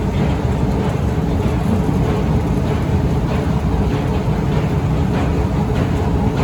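Otis escalator running: a steady low rumble with a faint hum, and light clicks recurring every half second or so.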